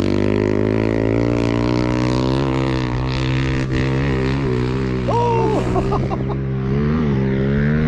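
Pit bike engine running at fairly steady revs, its pitch rising and dipping slightly.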